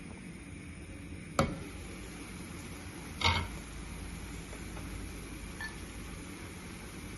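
Two sharp knocks, the first a short click and the second a louder, fuller knock about two seconds later, over a steady low background hum.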